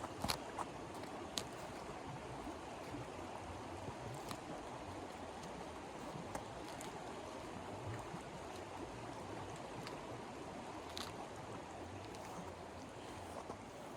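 Wood fire crackling softly: scattered sharp pops over a low, steady hiss.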